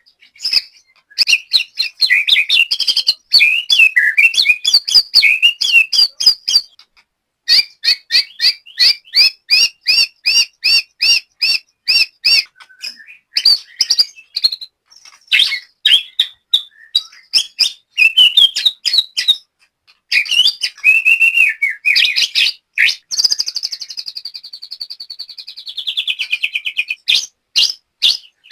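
White-rumped shama singing: fast runs of repeated whistled notes and trills, with a long trill that falls in pitch near the end.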